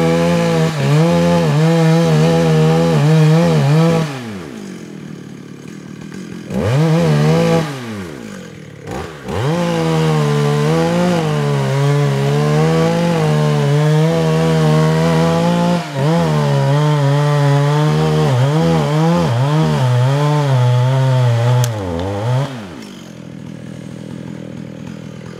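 Stihl two-stroke chainsaw cutting into the trunk of a red oak, its engine pitch wavering under load. It drops back to idle twice, about four and eight seconds in, revs up again, and falls back to idle near the end.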